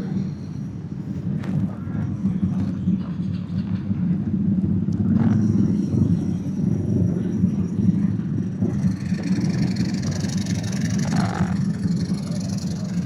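Motorcycle engines idling steadily at a standstill, a low, even drone.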